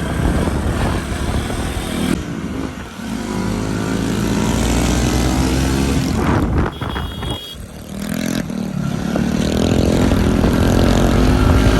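Motorbike engine running under way, its pitch rising and falling with the throttle; it eases off briefly about seven seconds in, then picks up and builds again.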